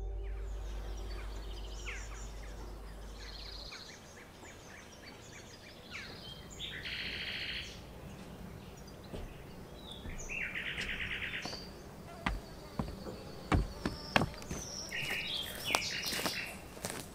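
Wild birds singing and chirping outdoors, with two fast trills. The low tail of fading music stops a few seconds in. Near the end come footsteps and a few sharp knocks.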